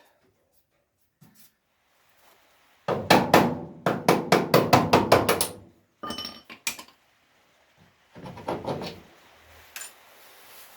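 Hammer blows on the steel sheet metal of a car's sill repair panel, which is being knocked into shape to fit before welding. A quick run of about a dozen strikes comes first, then two taps that ring, then a shorter run of blows near the end.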